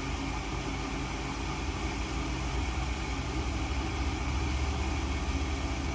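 Gas furnace running with a steady low motor hum, a little louder towards the middle, as it goes through its ignition retry cycle.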